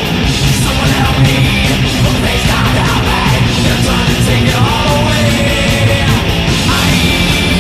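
Heavy metal music: a mashup of two thrash metal songs with distorted electric guitars, bass and drums playing loudly and steadily.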